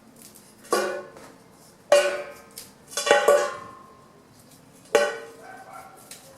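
A blade chopping into branch wood, five sharp strikes with the third and fourth close together, each leaving a short ringing tone.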